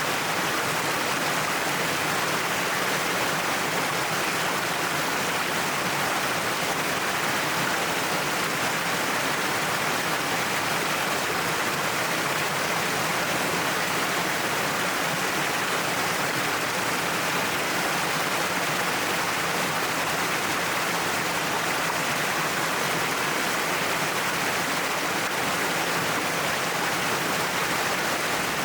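A cliffside waterfall's water pouring and splashing in a steady, unbroken rush.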